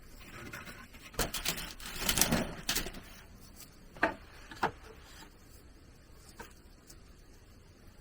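A quick run of clattering knocks lasting about two seconds, then two single sharp knocks, and a faint one later.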